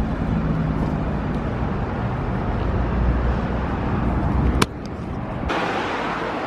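Car driving: steady engine rumble and road noise. About four and a half seconds in there is a sharp click, and the low rumble drops away.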